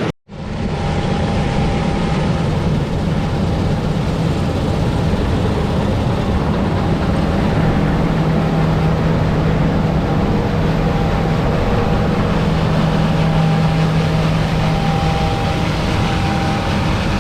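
Harvest machinery running steadily with a constant low hum and a fainter higher tone over a broad mechanical rush. It cuts in just after the start and fades out near the end.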